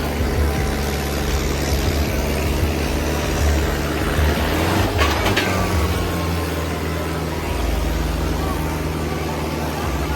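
Tractor diesel engines running steadily under load, with a brief sharp noise about halfway through.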